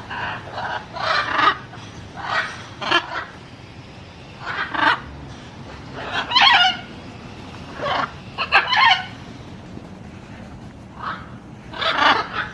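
Macaws squawking: about a dozen short, harsh calls at irregular intervals, some in quick pairs.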